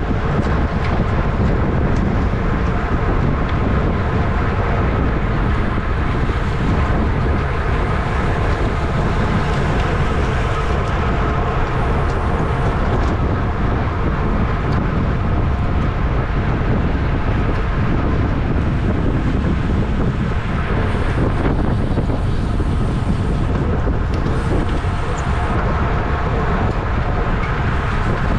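Wind buffeting a bicycle-mounted camera's microphone at racing speed: a loud, steady rush.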